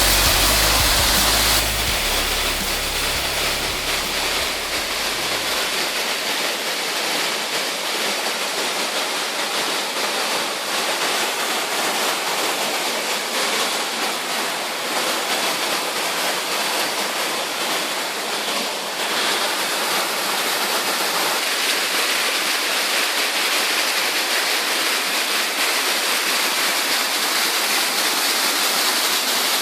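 Waterfall: a steady, even rush of falling water. Background music fades out in the first few seconds.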